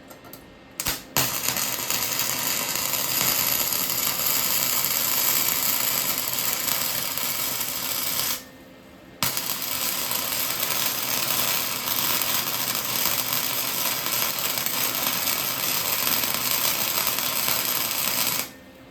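Electric arc welding: the arc is struck with a couple of short sputters about a second in, then crackles and sizzles steadily in two long runs, broken by a pause of about a second near the middle. It is welding a bracket to hold a broken-loose clutch tube.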